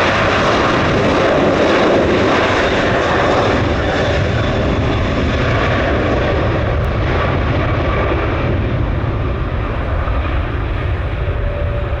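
Jet airliner's engines roaring as it passes, loudest a second or two in, then slowly fading and losing its high end as it moves away.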